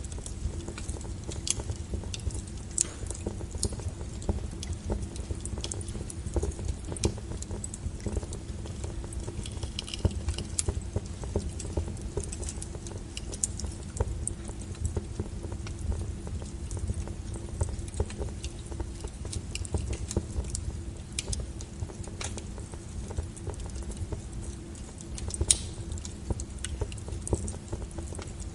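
Wood fire crackling: an irregular run of sharp snaps and pops over a steady low rumble, with a louder snap near the end.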